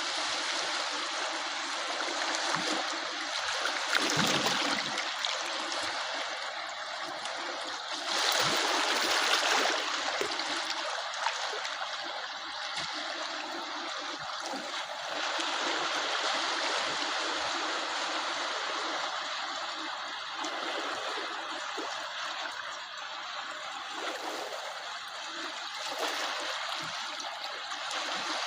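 Small sea waves washing onto the shore: a steady rush and trickle of water that swells louder a few times.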